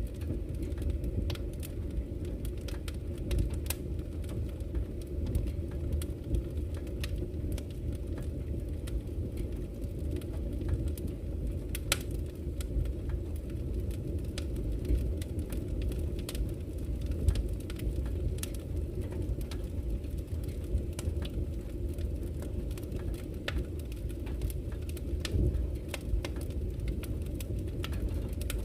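Campfire wood crackling and popping with frequent sharp snaps, over the steady low rush of a flowing river.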